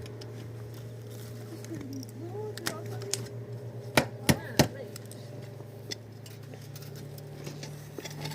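Three sharp knocks in quick succession about four seconds in, over a steady low hum, with faint voices in the background.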